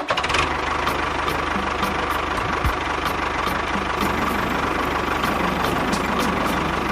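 An engine running steadily at idle, an even, continuous sound with a faint regular ticking over it.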